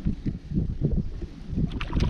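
Irregular low rumbling of wind buffeting the microphone, with water moving against a kayak's hull.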